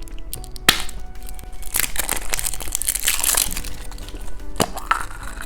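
Plastic candy packaging crinkling and crackling as a candy is unwrapped, with a couple of sharp clicks, one about a second in and one near the end.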